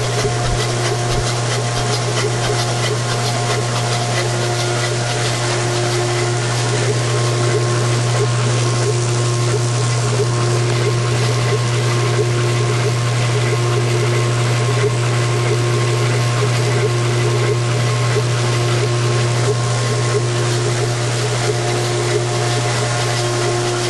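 Shelby GT500's 428 V8 engine being spun on a Simtester engine test machine: a steady, even mechanical hum and whir, with a higher tone that comes and goes every second or two.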